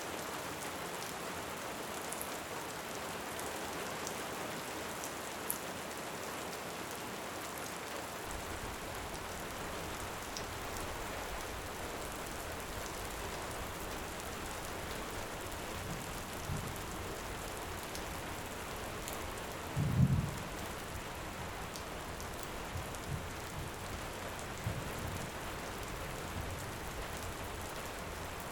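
Steady heavy rain with occasional faint crackles from a wood fire. Distant thunder rumbles in the low end from about a third of the way in, with one louder low boom about two-thirds through and a few softer rumbles around it.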